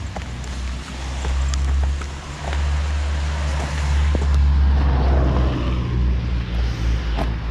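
Heavy rain with wind buffeting the microphone: a steady low rumble under a hiss of rain, with scattered sharp ticks of drops striking close by.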